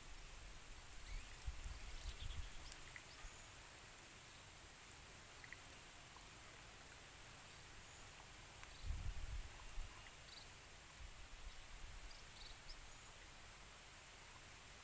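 Faint outdoor ambience: a low rumble that swells about a second in and again past halfway, with a few faint short chirps scattered through and a steady, rapid, very high-pitched pulsing like insects.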